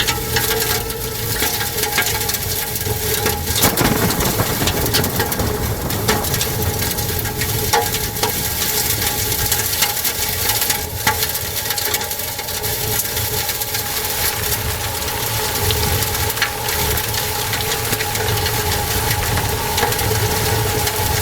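Tornado wind roaring with a continuous low rumble, with scattered knocks and cracks of debris striking. A steady hum of two tones runs through it.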